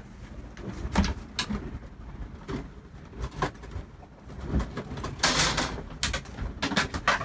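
Galley cupboards and drawers being opened, shut and rummaged through on a heeling sailboat: a run of knocks and clicks, with a louder rattling clatter about five seconds in.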